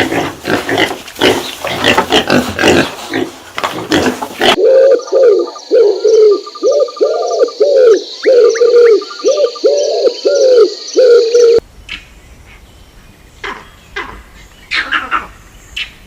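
A series of animal calls. First comes a run of dense, noisy calls. About four and a half seconds in it changes to a string of about a dozen short pitched calls, roughly two a second, which gives way near the end to fainter, scattered calls.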